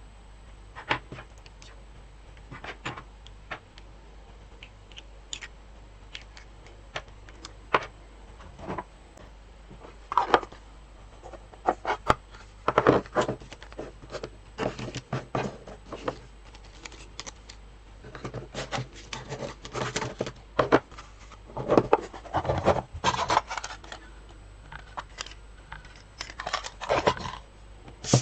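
Sewing supplies being handled and sorted: irregular small clicks, knocks and rustles of items being picked up and put down, sparse at first and much busier from about halfway through.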